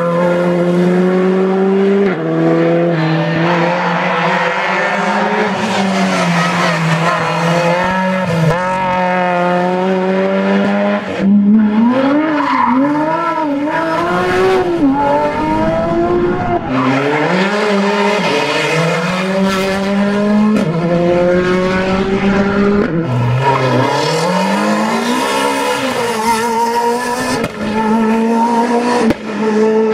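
Rally cars driven hard on a stage: engines revving high, the pitch climbing through each gear and dropping sharply at the shifts, with rapid rises and falls in revs through a run of corners around the middle.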